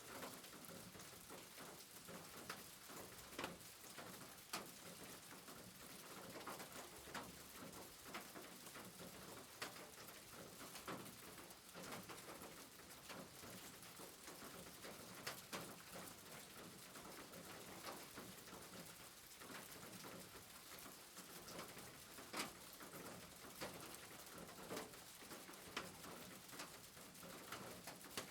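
Faint steady rain, with scattered drops ticking sharply at irregular moments.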